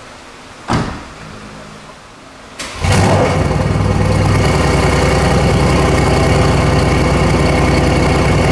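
2018 Mercedes-AMG C63 S twin-turbo 4.0-litre V8, fitted with new downpipes and a tune, started up warm about three seconds in: it catches with a flare of revs and settles into a steady, deep idle. A single sharp thump comes about a second before the start.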